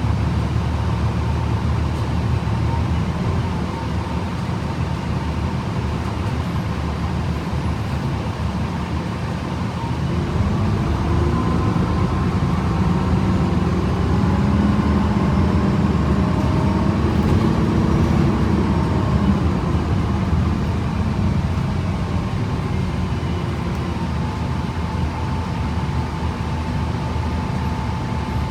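Inside a 2011 Gillig BRT transit bus: the engine runs with a steady rumble while the Voith automatic transmission gives off a thin whine. Both grow louder between about ten and twenty seconds in as the bus pulls harder, then ease back.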